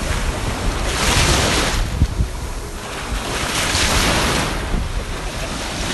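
Sea waves breaking in surges about every two and a half seconds, with wind buffeting the microphone as a low rumble.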